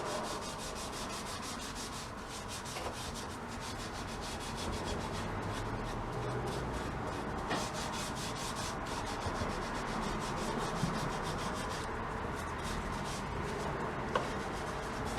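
Steady hand scrubbing of a gumball machine part being stripped with degreaser, a continuous rubbing made of quick repeated strokes.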